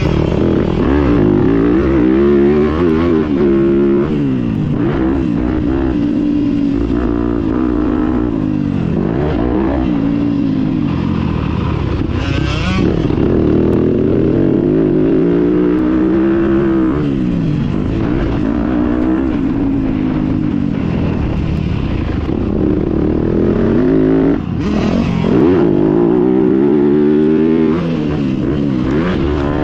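Small two-stroke motocross bike engine riding a track, its pitch climbing under throttle and dropping off again and again as the rider accelerates and backs off.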